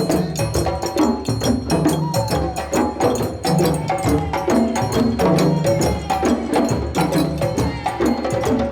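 African percussion music: dense, rapid drumming with a clicking wood-block or bell-like pattern over repeating low pitched tones, steady and loud.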